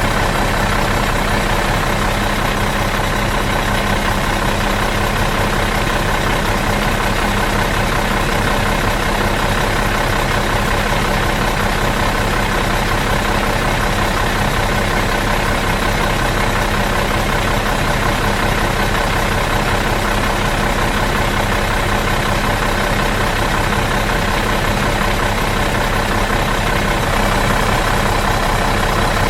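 Bus engine idling steadily out of gear, an even unchanging hum.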